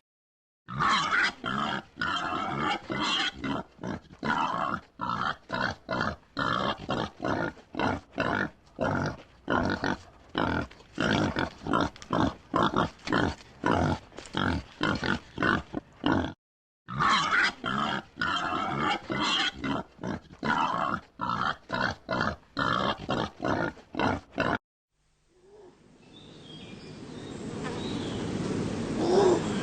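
A pig grunting in a long run of short, rapid grunts, about two to three a second, with one brief pause partway through. Near the end the grunting stops and a different, steadily building noisy animal sound takes over.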